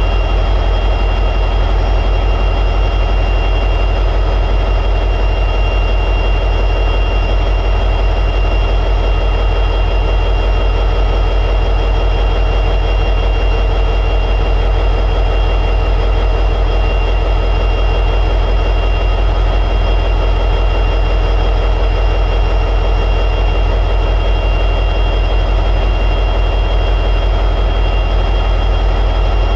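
EMD 710G3B diesel prime mover of an SD60E locomotive running steadily at high idle, a loud, even low rumble with a steady high whine over it.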